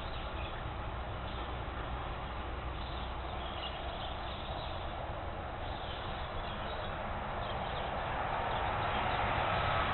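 Faint bird calls, short and high, over a steady background hiss that grows louder near the end.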